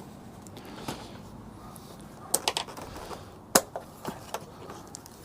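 Quick-release plastic clips on a motorcycle tank bag being unclipped one by one: several sharp clicks a second or so apart, with light handling noise between.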